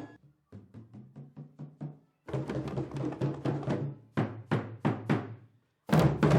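Drums struck in short runs. A soft run of quick hits comes first, then a louder, faster run, then a few separate hits, and a loud run starts near the end. Each stroke rings with a low, deep pitch.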